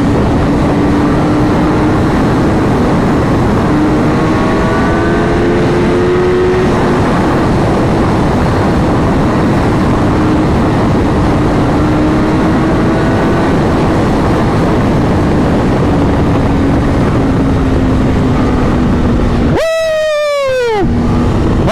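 Superbike riding at a steady speed, with loud wind and road rush over a steady engine note. Near the end the engine note falls sharply as the throttle closes.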